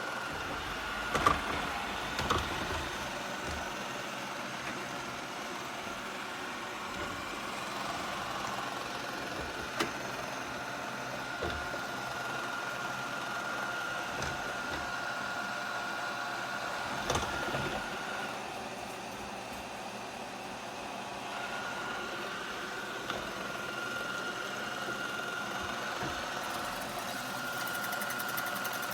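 iRobot Roomba Combo Essential robot vacuum running: a steady motor whine, broken by a few sharp knocks, the loudest about a second in.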